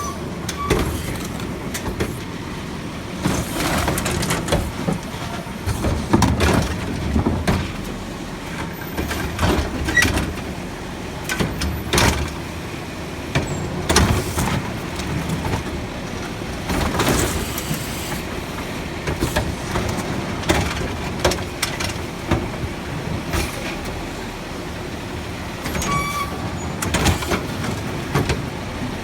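Garbage truck engine running, with repeated loud clanks and bangs scattered through.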